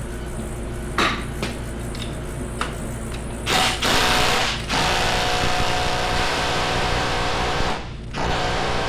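Impact wrench rattling on a bolt extractor hammered into a broken, stuck bolt. It runs in two long bursts, starting about a third of the way in, briefly stopping near the end, then starting again. The tool lacks the power to break the bolt free. A few light clicks come before the first burst.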